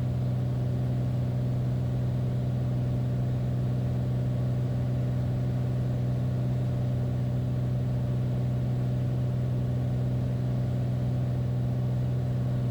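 Beechcraft Bonanza's single piston engine and propeller droning steadily, heard from inside the cockpit, on final approach with the gear down.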